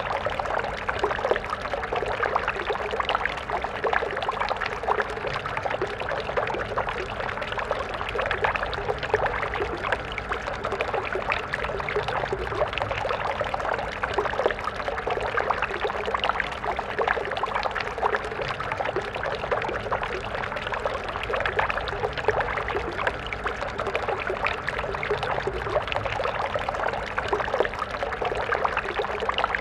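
A shallow stream flowing steadily: a continuous splashing and gurgling of water over stones, without pauses.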